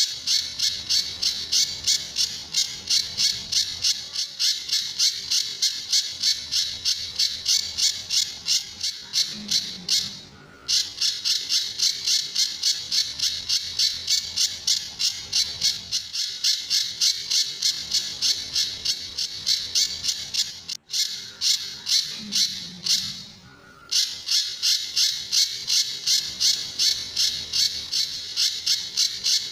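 Pijantur songbird calling in a fast, even train of sharp, high notes, about three a second, with short breaks about ten and twenty-three seconds in.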